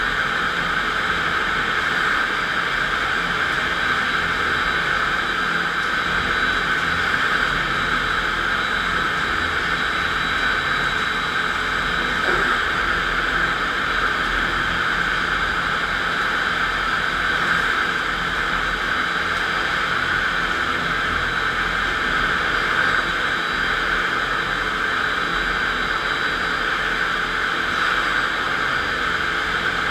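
FastPrep electric concrete floor grinder running steadily, its 16-grit single-rhombus diamond grinding plates cutting the concrete floor, a steady, unbroken noise.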